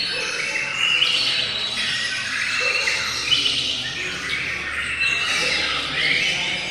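Many songbirds singing at once, a dense, unbroken mix of overlapping chirps and trills.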